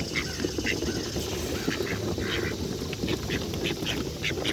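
A flock of ducks quacking and calling all together, many short overlapping quacks over a dense low chatter.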